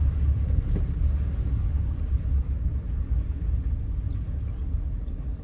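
A car being driven, heard as a steady low rumble of engine and road noise.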